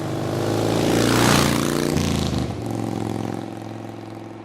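Engine sound swelling to a peak about a second in, then slowly fading away.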